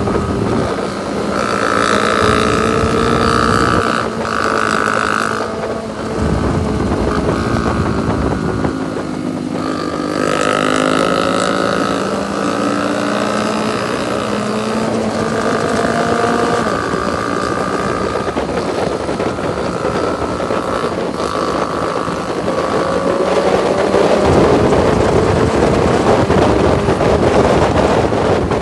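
Motorcycle engine under way, its pitch rising and falling as the revs change, with wind buffeting the microphone. The wind grows louder near the end.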